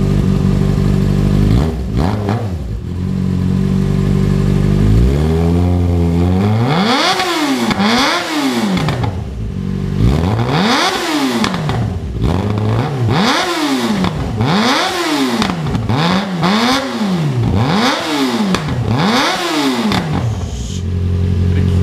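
Yamaha FZ6R's 600 cc inline-four engine revving through a Two Brothers Black Series full-system exhaust with its silencer insert fitted. It idles at first, then gets about eight quick throttle blips, each rising and falling in pitch, before dropping back to idle near the end.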